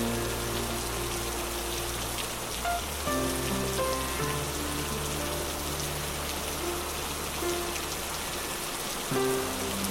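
Steady rain falling as an even hiss, with soft ambient music beneath it: long held low notes over a sustained bass, changing every second or so.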